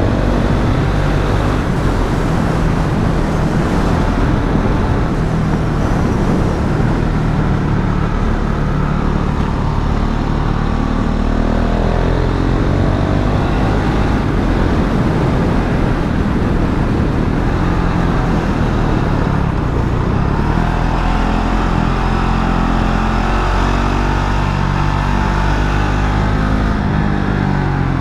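KTM Duke 690's single-cylinder engine heard from on board while riding, its pitch rising and falling with the throttle, with two clear climbs in revs midway and later.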